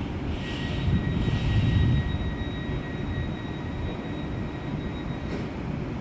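Train moving through the station: a low rumble from the wheels and tracks, with a steady high-pitched whine that cuts off suddenly about five seconds in.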